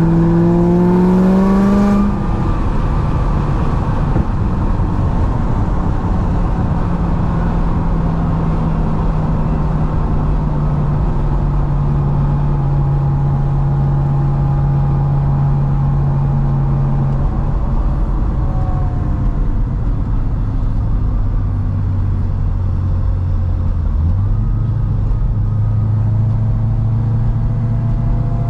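Supercharged 6.2-litre V8 of a modified C6 Corvette ZR1 accelerating hard for about two seconds, its note rising, then dropping off abruptly. It then runs on at a steady drone that slowly falls in pitch, jumps up suddenly about 24 seconds in, and climbs gently near the end.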